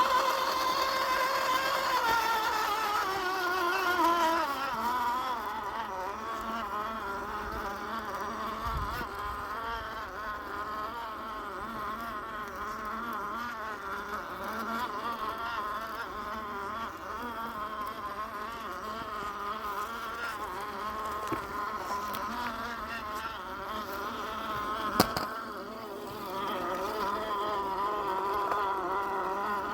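Axial SCX10 II RC crawler's electric motor and geartrain whining, the pitch wavering up and down with the throttle as it crawls. The whine drops in pitch over the first few seconds, and a single sharp click comes near the end.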